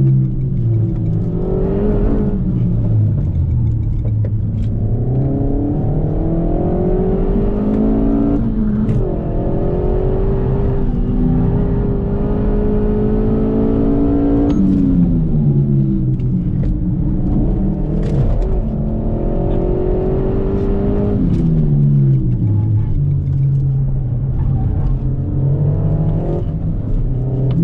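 Renault Mégane RS Trophy's turbocharged four-cylinder engine heard from inside the cabin, revving hard and climbing in pitch with a gear change about nine seconds in. About halfway through it lifts off and winds down in steps as the car brakes hard for a corner, then picks up again near the end.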